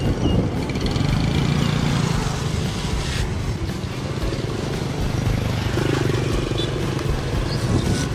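A small engine running steadily with a continuous low hum.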